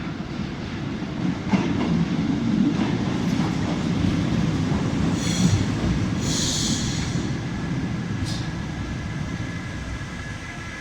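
Paris Métro train running along the rails through the station, a steady low rumble that swells and then eases, with short high-pitched wheel squeals about halfway through.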